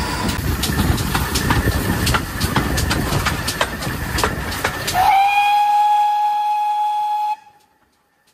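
A train behind a pannier tank steam locomotive running, its wheels clicking regularly over rail joints. About five seconds in, the locomotive's whistle sounds one held note, sliding up slightly at the start, then stops abruptly after about two seconds.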